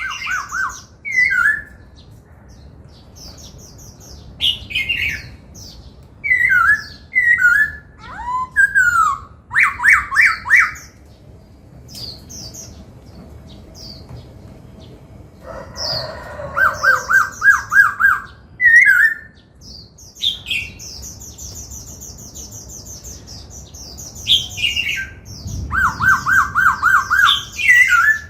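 Black-throated laughingthrush singing a loud, varied song of short whistled phrases. Three times it breaks into a fast run of repeated notes.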